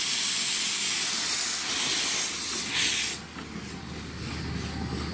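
Steam locomotive letting off steam: a loud, high hiss that wavers twice and stops abruptly about three seconds in.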